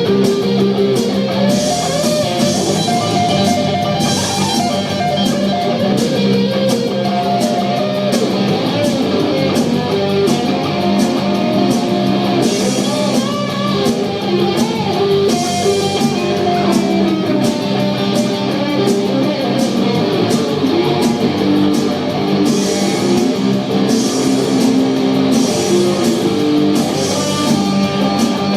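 A live rock band playing: guitars over a drum kit, with cymbal strokes keeping a steady beat.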